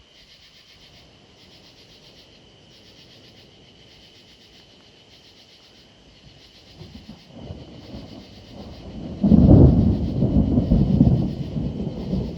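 Thunder: a low rumble builds about seven seconds in, breaks into a loud clap about nine seconds in, and keeps rolling.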